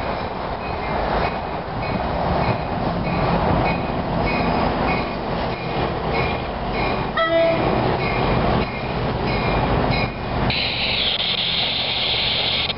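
Tri-Rail passenger train led by GP49PH-3 diesel locomotive 812 approaching and pulling into the station, its diesel engine rumbling steadily while a bell rings a couple of times a second. A short horn blast sounds about seven seconds in. From about ten and a half seconds a loud, high hiss sets in as the train slows.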